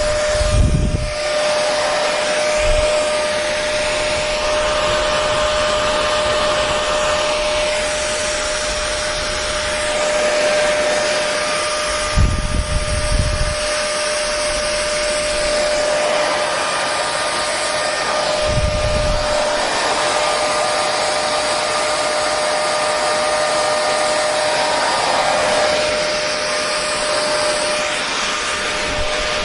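Hair dryer running steadily: a constant rush of air with a steady whine. A few brief low rumbles break in, about a second in, around twelve seconds and around nineteen seconds.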